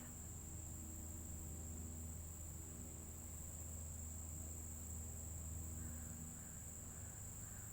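Crickets trilling in a steady, continuous high-pitched chorus.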